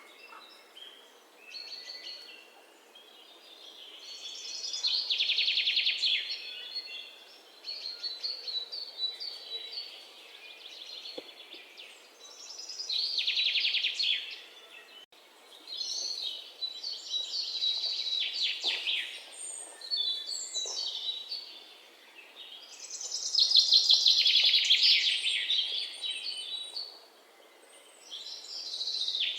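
Shrill chirping calls from animals, coming in swells every few seconds, each building over a couple of seconds.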